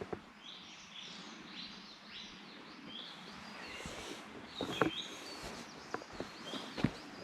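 Small birds chirping over and over, short high calls, with footsteps on the trail coming in about halfway through.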